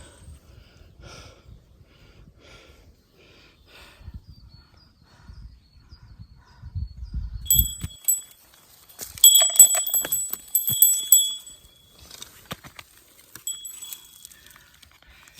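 A small metal bell jingling in clustered bouts, starting about halfway through, loudest a couple of seconds after it begins, then briefly again near the end. Before it, only faint low wind rumble and soft ticks.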